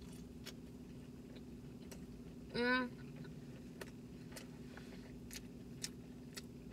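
Close-up chewing of crispy battered cod, with faint crunches and small mouth clicks scattered through. There is a short rising hummed 'mm' about two and a half seconds in, over a steady low hum.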